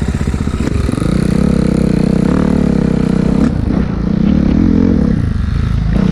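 Dirt bike engine running at low revs, then revving up about a second in; the revs rise and fall, dropping off about halfway through and again near the end.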